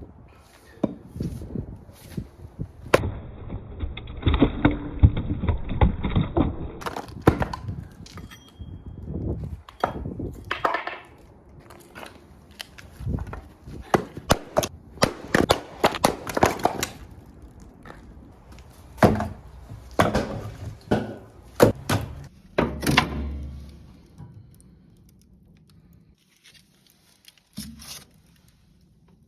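Firewood being split with an axe: repeated sharp chopping blows and wood cracking apart, spaced irregularly and thinning out near the end.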